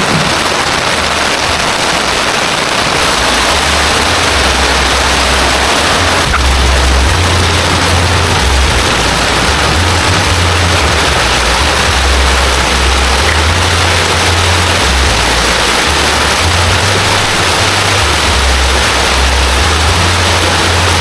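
Heavy rain pouring down in a steady, loud hiss, with a low uneven rumble underneath.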